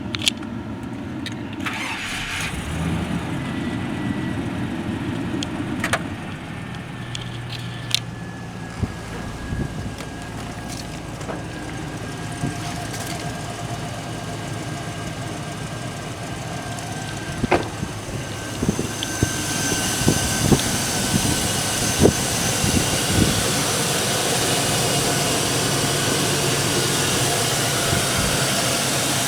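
A 2002 Chevrolet Silverado's 5.3-litre LM7 Vortec V8 running at idle, with scattered light clicks and knocks. About two-thirds of the way in, a louder rushing noise joins and the overall sound gets louder.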